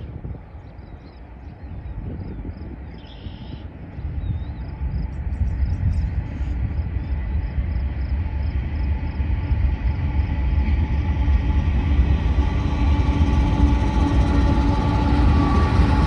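A train approaching, its low rumble growing steadily louder, with steady tones coming up toward the end.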